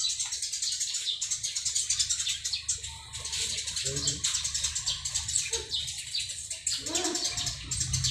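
Dense, rapid chirping of small birds, many short high calls tumbling over one another without a break.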